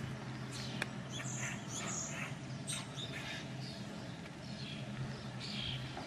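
Small birds chirping and twittering in short, repeated high calls, with a steady low hum underneath.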